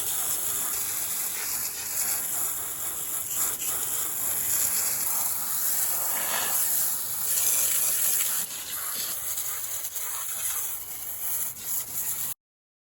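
Water spraying in a steady hissing, gushing stream, washing mud off a small tractor; it cuts off suddenly near the end.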